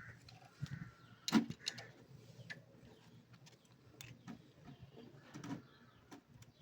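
Scattered light metallic clicks and taps from hand tools and engine parts during work on a motorcycle engine's valve train, with one sharper knock about a second and a half in.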